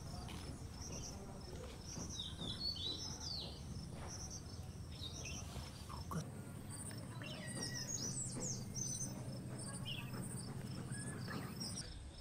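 Outdoor ambience of insects chirping in evenly repeating high pulses while several birds call with short sweeping notes, over a steady low background rumble.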